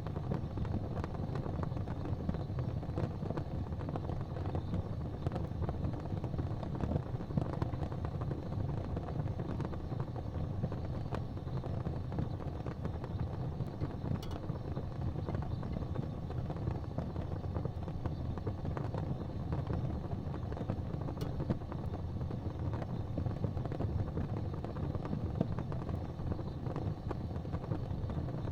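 Fire burning in a fireplace: a steady low rumble with scattered small crackles and an occasional sharper pop.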